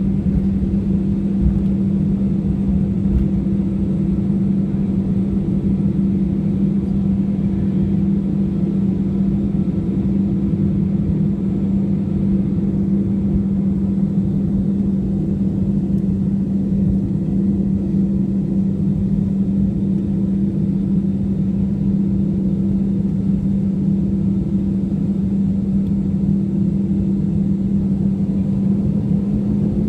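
Jet airliner engines idling: a steady low hum over a rumble, unchanging throughout.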